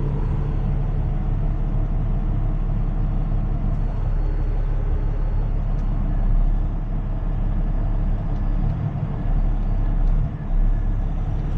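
A tow truck's engine runs steadily at low speed as the truck is manoeuvred. It swells briefly twice.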